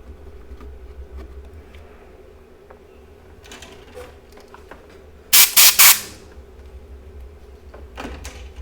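Compressed air hissing from a blower nozzle onto an engine control unit circuit board: three quick loud blasts about five seconds in, with shorter softer puffs before and near the end, over a steady low hum.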